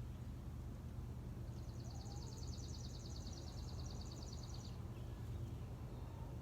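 A small songbird singing one fast, high trill of evenly repeated notes, about three seconds long, over a steady low hum.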